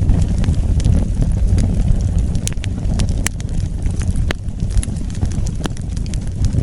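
Wood fire burning with a steady low rumble and irregular sharp crackles and pops from the burning wood.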